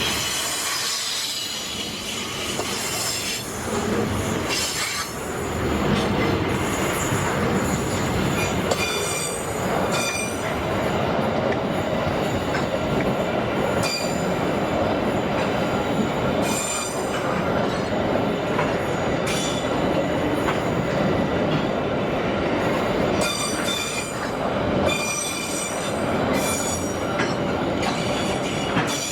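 Freight train wagons rolling past with a continuous rumble, their steel wheels squealing against the rails in high-pitched whines that come and go.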